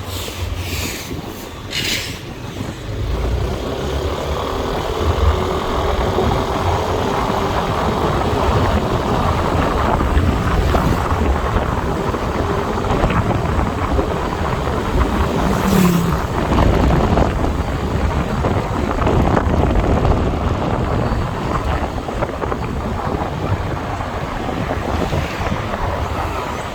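Wind rushing over the microphone with the engine and road noise of a motorbike riding in traffic, growing louder about three seconds in as it picks up speed. A few sharp clicks near the start and one about sixteen seconds in.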